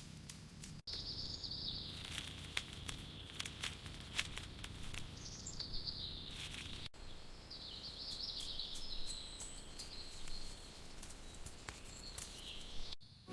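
Forest ambience: a continuous high, wavering chirring in the background with many small sharp ticks and rustles over it. The sound drops out abruptly for an instant about a second in, at about seven seconds, and just before the end, where clips are joined.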